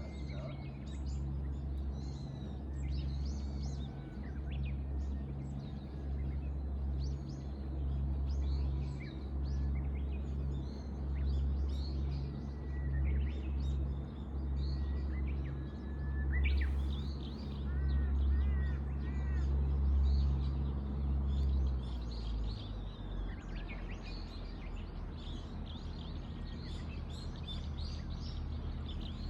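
Birds chirping and calling over and over, with a short run of about four quick rising-and-falling notes a little past the middle. Beneath them runs a low steady drone, the loudest thing present, which drops lower and thins out about three quarters of the way through.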